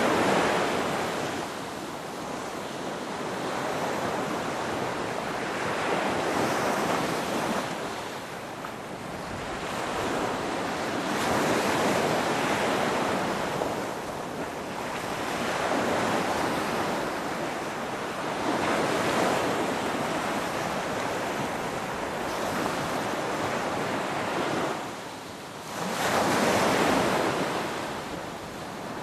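Ocean waves surging and washing back, the sound swelling and fading every few seconds, with a brief lull near the end before one of the strongest surges.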